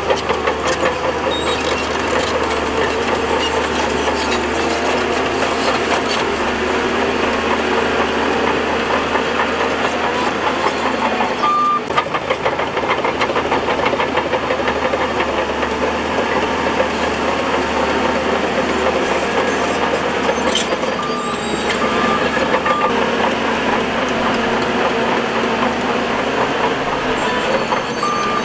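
Bulldozer engine running steadily under work, with a dense rattle from the machine, and a few short high beeps: one about twelve seconds in, three in quick succession a little past twenty seconds, and one near the end.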